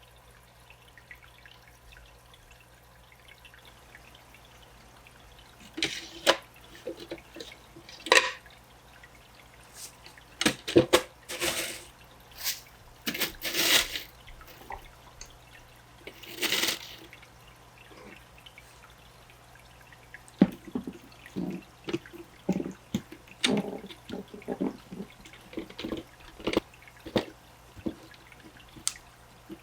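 Water pouring and splashing in short, irregular bursts in an aquarium tank being set up. The bursts begin about six seconds in, after a few quiet seconds, over a low steady hum.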